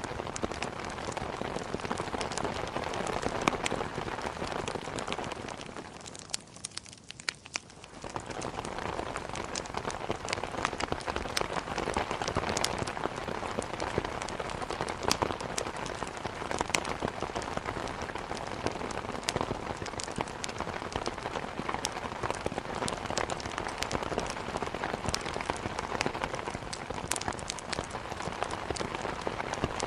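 Steady heavy rain hitting a window, mixed with the scattered sharp crackles of burning wood in a fireplace. About six seconds in, the sound drops quieter for roughly two seconds, then comes back at its usual level.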